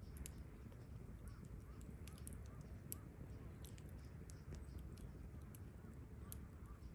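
Wood campfire crackling, with scattered sharp pops and snaps over a low rumble of burning, and a few faint bird calls in the background.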